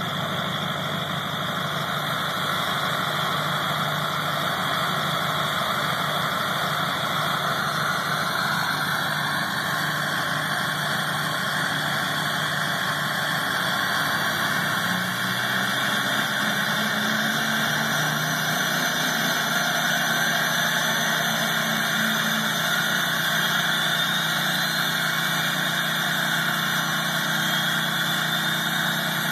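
2004 Duramax LLY 6.6-litre V8 turbo-diesel with a 4-inch straight-pipe exhaust idling steadily on high idle after a cold start in about 10-degree weather. The engine note steps up slightly about halfway through, and faint rising whistles come in during the second half.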